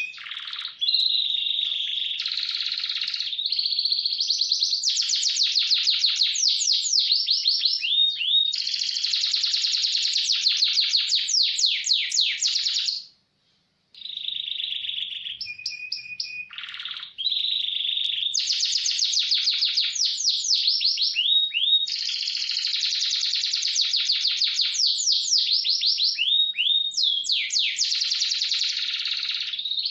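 Domestic canary singing a long continuous song of fast rolling trills and rapidly repeated notes. It breaks off for about a second near the middle.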